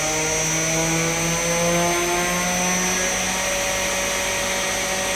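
Airquip 15 kW variable-speed, oil-injected rotary screw compressor running under load, pumping an empty tank up toward 8 bar. Its motor tones rise slowly in pitch through the first three seconds as the drive speeds up, then hold steady over a constant hiss and a steady high-pitched whine.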